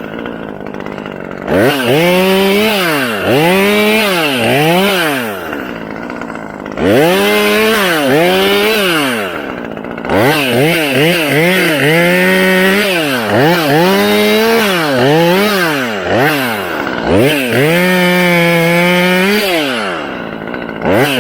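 Gas chainsaw engine revving up and down in repeated throttle bursts, dropping back to idle between them, with a couple of seconds held at a steady high pitch near the end.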